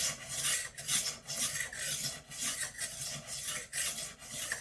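Rolling knife sharpener's abrasive disc rasping along a kitchen knife's edge in quick back-and-forth strokes, about two or three a second.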